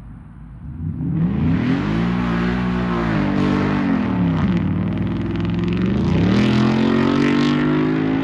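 A vehicle's engine running and revving. About a second in it comes up loud, its pitch climbs, drops near the middle and climbs again.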